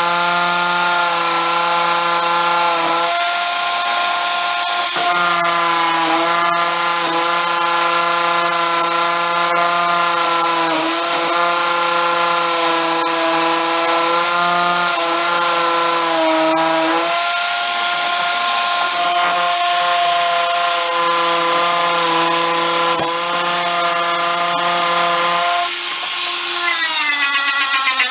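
Electric power tool motor running with a steady whine over a loud hiss. Its pitch sags briefly several times as it is loaded, then rises sharply near the end as the motor speeds up.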